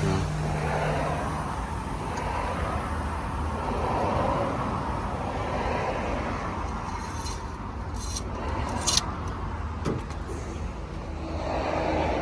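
2005 Dodge Ram 1500's 5.7-litre Hemi V8 idling steadily, with a few light clicks about seven to nine seconds in.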